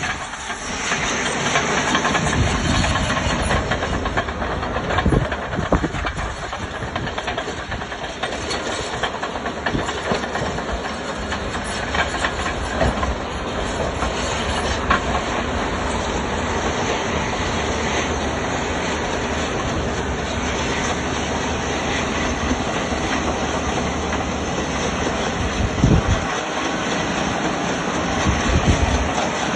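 Heavy diesel earthmoving machinery, such as an excavator, running steadily with a hiss, and several sharp metallic knocks along the way.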